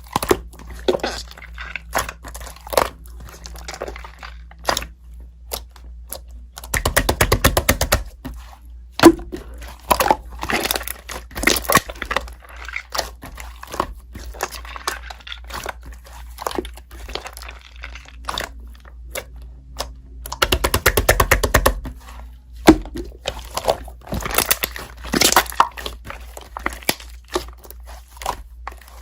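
Slime being squished and poked by hand: sticky clicks, pops and crackles, with two short runs of rapid clicking about a third of the way in and again past the middle.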